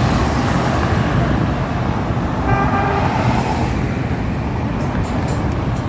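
Steady engine rumble, with a short horn toot about two and a half seconds in.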